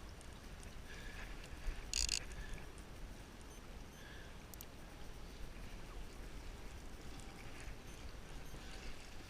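Quiet open-water ambience with a steady low rumble. About two seconds in there is a short run of rapid sharp clicks.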